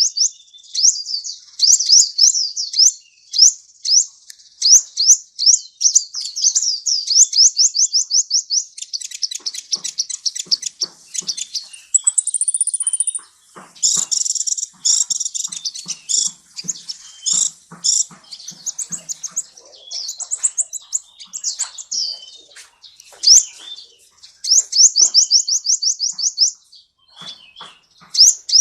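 Sunbird ('kolibri') singing: long runs of rapid, high chirped notes and trills, with a brief steady high whistle about twelve seconds in and a stretch of denser chattering after it.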